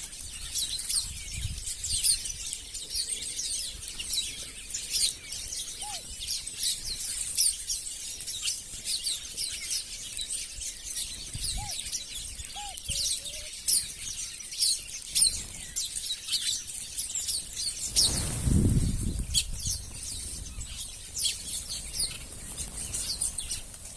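Many small birds chirping densely with short, high calls, with a few lower calls here and there. About three quarters of the way through comes a brief rush of noise.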